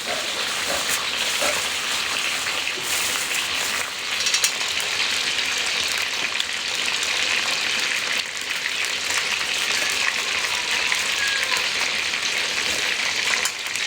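Food sizzling steadily as it is pan-fried, with a few short clicks scattered through.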